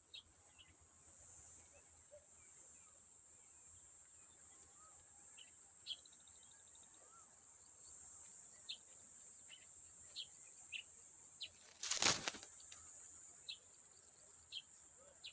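A steady high-pitched insect drone, with short, scattered bird chirps over it. About twelve seconds in there is one brief, loud, noisy burst.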